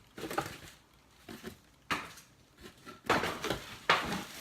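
Handling noise from cookware being unpacked: a few short knocks and rustles of pots, pans and packaging, the loudest a little past the three-second mark and again near the end.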